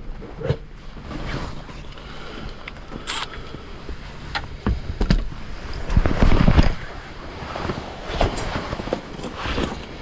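Hands working on a heat pump air handler: scattered clicks, knocks and creaks, with a louder stretch of low knocking and rubbing about six seconds in.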